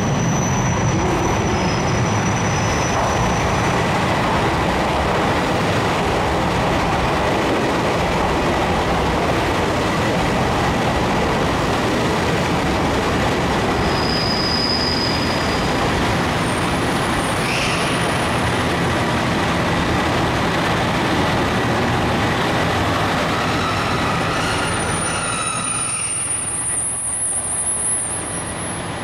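Diesel limited express train running on the station track, a loud steady train noise that eases off a few seconds before the end.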